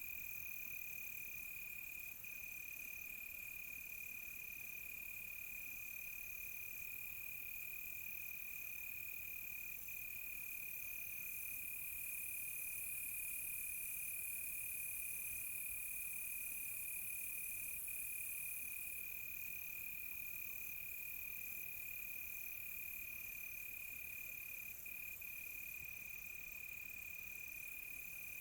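Night chorus of crickets: one steady high trill that runs on without a break, a higher trill switching on and off in short spells, and a shrill, very high insect hiss that swells for several seconds in the middle.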